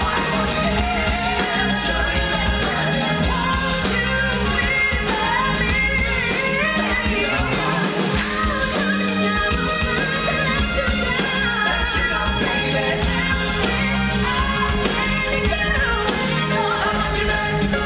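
Live rock band performing a song, with singing over a steady beat.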